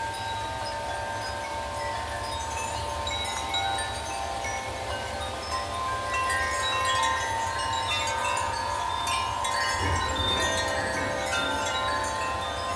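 Metal wind chimes ringing busily in gusty wind, many overlapping tones struck again and again and growing denser about halfway through, over a steady low rumble of wind on the microphone.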